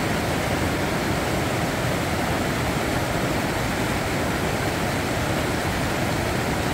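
Fast-flowing mountain creek rushing steadily: a dense, even water noise.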